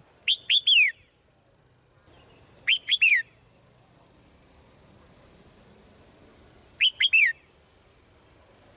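Swallow calls: a short phrase of three or four sharp chirps, repeated three times about every four seconds.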